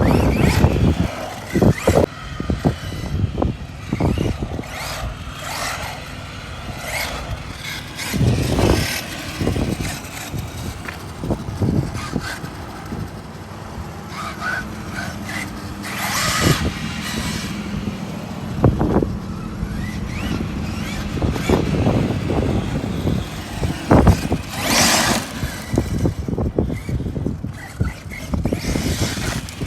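ARRMA Mojave 6S RC truck's brushless motor whining in short throttle bursts that rise and fall, with its tires churning dirt and scattered knocks from landings and suspension hits.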